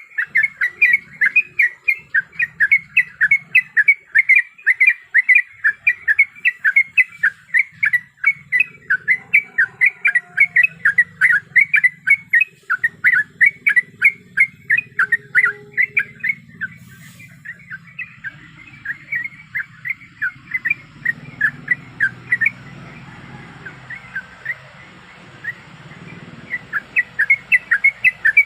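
Yellow-vented bulbul (trucuk) giving a long, fast run of short chirping notes, several a second. A faint hiss rises about two thirds of the way through while the notes thin out, and the quick run returns near the end.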